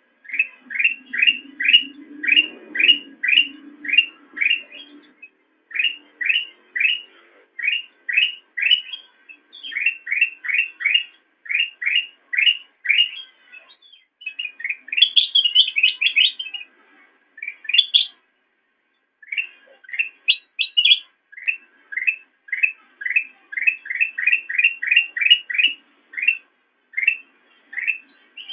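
Kutilang emas bulbul singing: quick runs of short, rising whistled notes at about five a second, in phrases broken by brief pauses, with a busier, higher twittering passage about halfway through.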